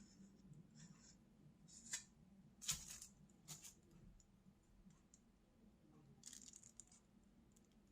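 Near silence with a few faint clicks and taps, the loudest about three seconds in and a cluster of lighter ones near the end.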